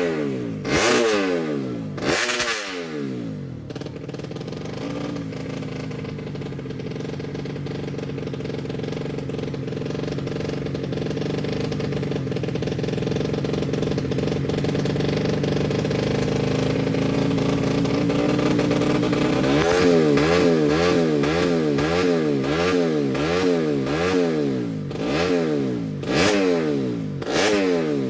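Motocross bike engine being revved. It opens with sharp throttle blips, then holds a steady high note whose pitch slowly rises, then is revved rapidly up and down about twice a second, ending with more big blips.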